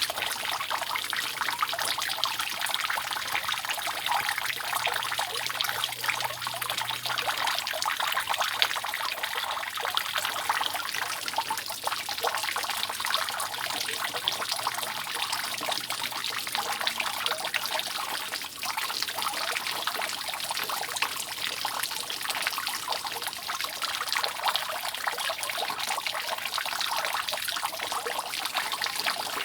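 Rainwater dripping and trickling steadily off a roof: a dense, unbroken patter of many fine drops, with no let-up.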